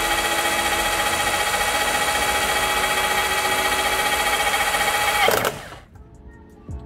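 Cordless Bosch GBH18V-26 rotary hammer running steadily at speed, driving a hole saw through an SDS keyed-chuck adapter into a beam: a constant motor whine with cutting noise. About five seconds in the motor is released and spins down with a falling whine.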